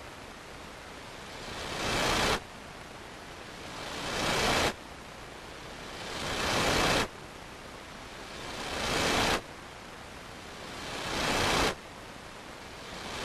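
A looped whooshing noise effect: a hiss that swells up over about a second and then cuts off abruptly, repeating five times at an even pace of roughly every two and a half seconds, over a steady background hiss.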